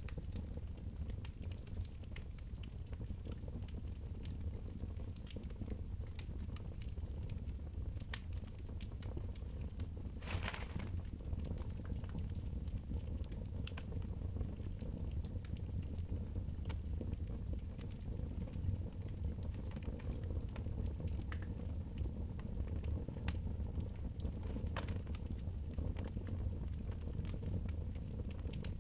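Wood fire crackling in a fireplace: scattered small pops and snaps over a steady low rumble, with one louder crackle about ten seconds in.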